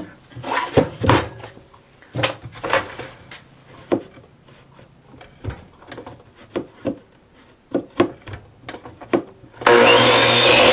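Cedar fence-picket boards handled on a workbench: a string of light wooden knocks and rubs. Near the end a power tool switches on and runs loudly.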